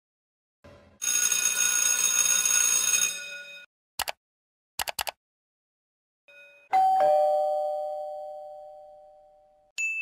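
A two-tone ding-dong doorbell chime, a high note then a lower one, ringing out and fading over about three seconds in the second half. Before it, from about a second in, comes a hissing noise with steady tones lasting about two and a half seconds, then a click and a quick triple click.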